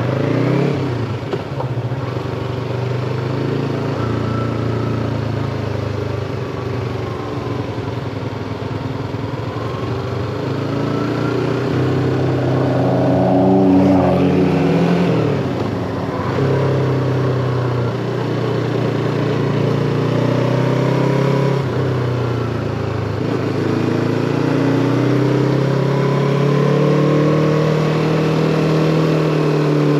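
Yamaha MT-25's 250 cc parallel-twin engine running under way, its pitch rising and falling with the throttle. It climbs to a peak about halfway through, then drops off briefly twice in the second half.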